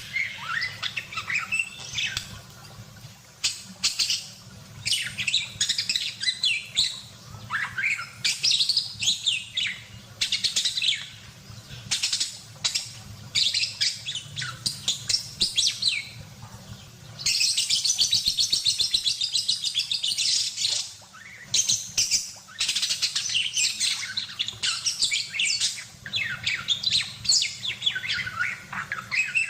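Budgerigar warbling and chattering in quick, shrill chirps and twittering bouts. About two-thirds of the way through comes a longer run of fast repeated notes.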